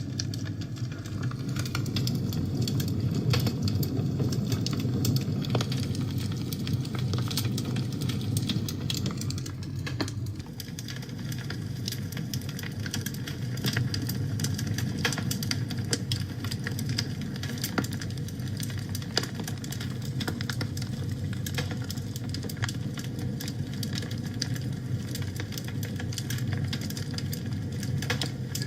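Wood fire burning in a fireplace: a steady low rush of flame with frequent sharp crackles and pops.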